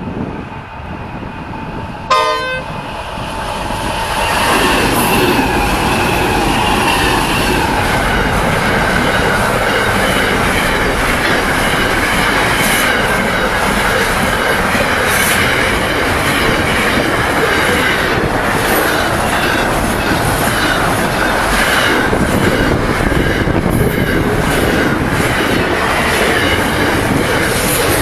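A train passing at close range, wheels clicking over the rail joints, with a steady high squeal from the wheels. A brief horn toot sounds about two seconds in, and the train gets louder up to about four seconds in.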